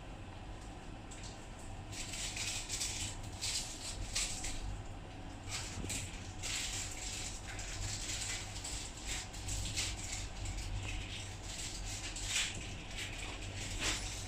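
Irregular rustling and rattling handling noises, starting about two seconds in and continuing in uneven bursts, as a small part is turned over and moved about by hand, over a steady low hum.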